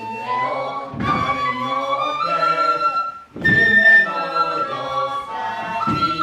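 Instrumental music led by a flute-like wind instrument, holding long notes, with a new phrase striking in about every two and a half seconds.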